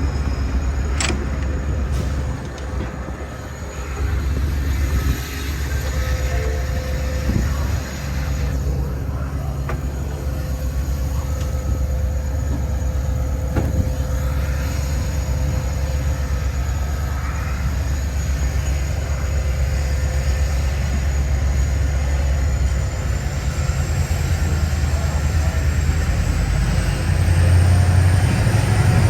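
Metra commuter train with EMD F40PH-3 diesel locomotives running at the platform: a steady low diesel drone with a thin high whine that starts rising in pitch about two-thirds of the way through. The low drone grows louder near the end.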